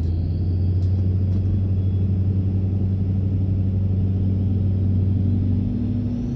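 Duramax diesel pickup engine running at a steady pitch, with a faint high whine slowly rising in pitch above it.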